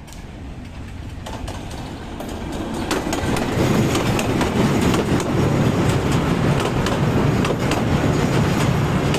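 Train running across a railway bridge, getting louder over the first four seconds and then staying loud, a low rumble with many sharp clicks from the wheels on the track.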